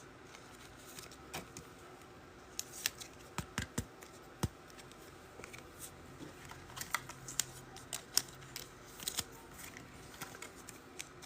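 Irregular light clicks and taps of trading cards and their plastic holders being handled and sorted on a table.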